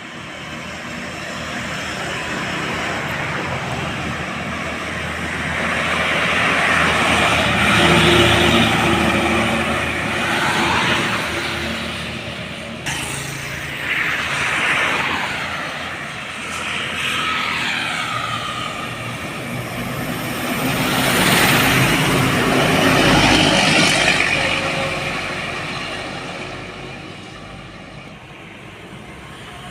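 Heavy trucks driving past on a road one after another, each engine and its tyres swelling up and fading away with the pitch bending down as it goes by. The passes are loudest about eight seconds in and again around twenty-two seconds.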